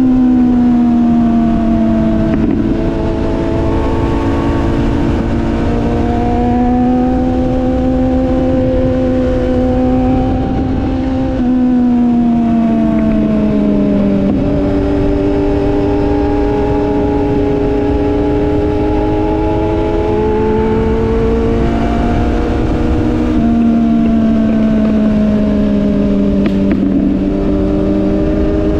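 Sport motorcycle engine running at road speed. Its pitch sags and climbs again several times as the rider eases the throttle and changes gear, over a steady low rush of wind noise.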